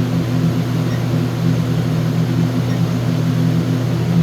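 Steady low hum of running machinery, even and unchanging.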